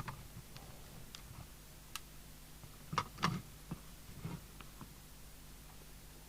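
Scattered light clicks and knocks of hands working at a CB radio as a replacement microphone is plugged in, the loudest pair about three seconds in and another about a second later, over a faint steady hum.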